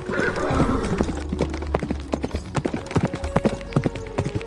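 Horse's hooves clip-clopping: a quick, uneven series of hoof strikes, several a second.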